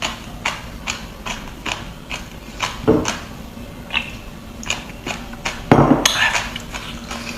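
Close-up chewing of raw sea anemone: a run of short wet mouth smacks, about two or three a second, with one longer, louder wet noise a little before the end.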